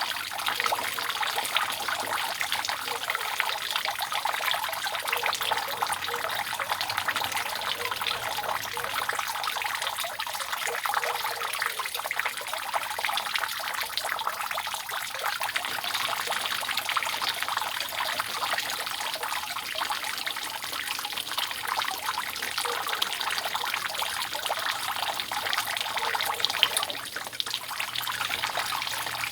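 Rainwater dripping and trickling steadily off a roof: a dense, even patter of many small drops, with one louder drop near the end.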